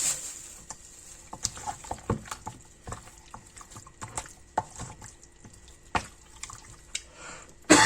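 Wet squelching and clicking of marinated chicken pieces being mixed into seasoned flour batter, a scatter of short sounds with sharper clicks about two, four and a half and six seconds in. A cough comes right at the end.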